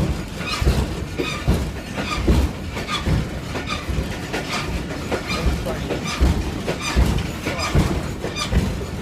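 Train in motion heard from on board: steady running rumble with frequent irregular knocks and clanks of the carriage and wheels on the track.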